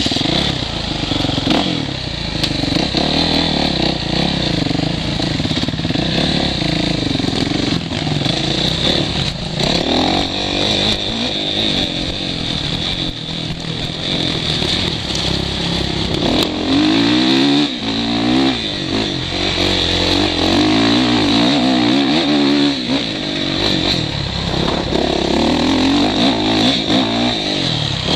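Motocross bike engine heard through a helmet camera, revving up and down repeatedly as the bike accelerates and the rider shifts. The rise and fall of the revs grows stronger about halfway through, with scattered knocks over the engine.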